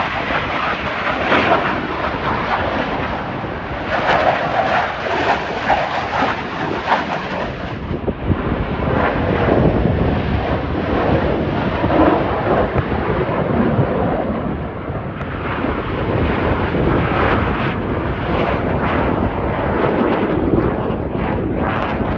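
Jet noise from Blue Angels F/A-18 Super Hornets flying the display: a loud, continuous roar that rises and falls a little, with some wind buffeting on the microphone.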